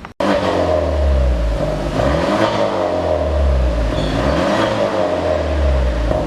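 Kia Stinger 2.0T's turbocharged four-cylinder being revved through a chamber-type dual valved exhaust, the pitch rising and falling several times. It starts abruptly just after a brief gap.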